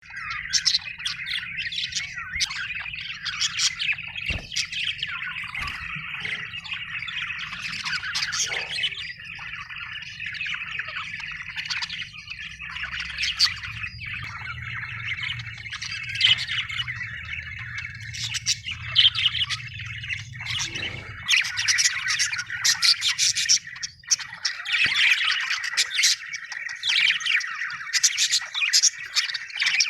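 Budgerigars chirping and warbling in a continuous, busy stream of quick twittering calls with occasional sharper squawks.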